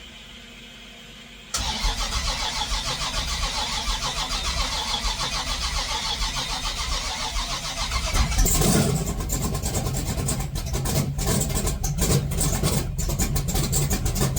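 Car engine being started for the first time after its lay-up. The starter motor cranks it for about six seconds, then the engine fires and runs unevenly, with irregular sharp pops.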